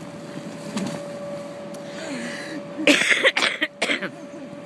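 A person's voice making short, loud non-speech bursts about three seconds in, over a faint steady hum.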